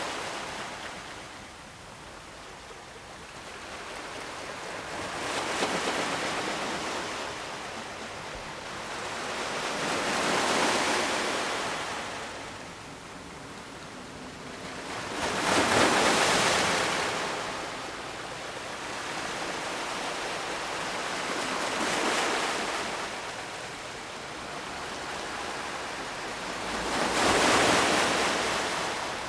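Ocean waves breaking and washing in one after another: five swells of rushing noise, about one every five to six seconds, the ones about sixteen seconds in and near the end loudest.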